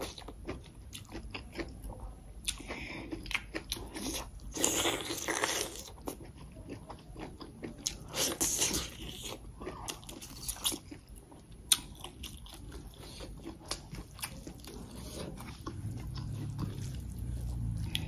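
Close-miked eating: a person chewing and smacking on a handful of rice, greens and chicken, with wet mouth clicks and a few louder spells of chewing. A low hum comes in near the end.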